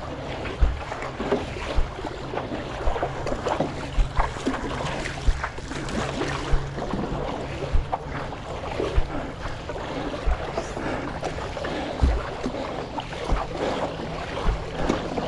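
Stand-up paddleboard being paddled: a short stroke thump about once every 1.2 seconds, over steady splashing and wash of water along the board.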